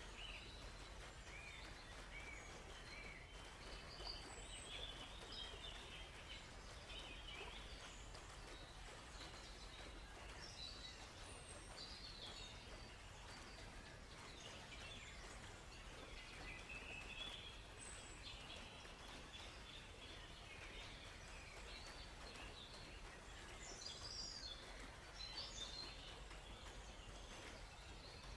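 Faint forest ambience: several birds chirping and twittering on and off, over a steady low background hiss.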